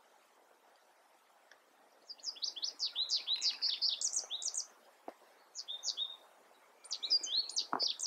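A songbird singing quick runs of high, rapid chirps. It starts about two seconds in, pauses briefly around the middle, and picks up again near the end.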